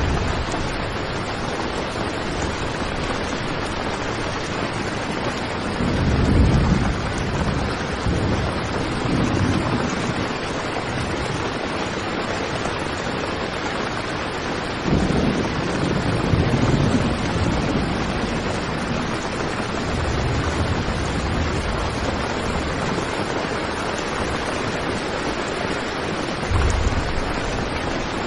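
Heavy rain drumming steadily on a tent, a constant dense hiss, with a few low rumbling swells that come and go.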